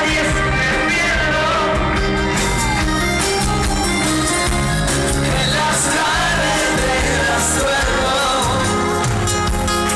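Live pop-rock band playing at concert volume with a steady beat and bass, and singing over it.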